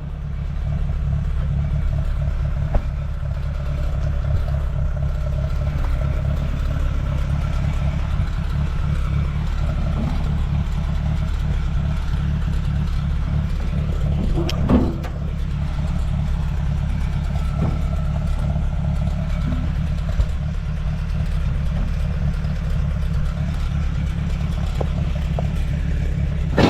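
1948 Allis-Chalmers C tractor's four-cylinder engine idling steadily, with a few brief metallic knocks now and then.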